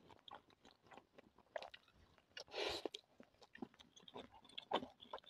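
Faint close-up chewing of someone eating, with small wet mouth clicks and a brief louder noisy sound about two and a half seconds in.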